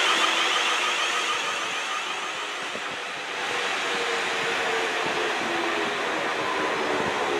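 South Western Railway electric multiple unit running past the platform: continuous rumble of wheels on rail with a faint steady hum, dipping slightly about three seconds in and then picking up again.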